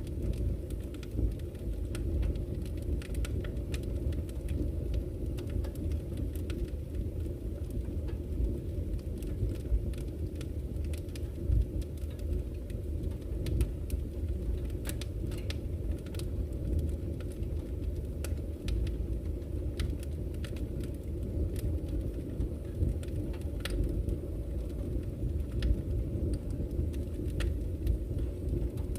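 Campfire crackling with irregular sharp pops, a few louder than the rest, over a steady low rush of flowing river water.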